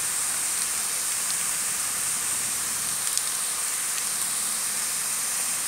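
Finely chopped onions and garlic paste sizzling steadily in hot coconut oil in a frying pan, with a few faint pops.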